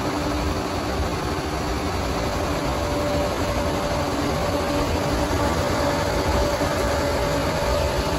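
Bulldozer's diesel engine running steadily, its pitch and loudness holding level.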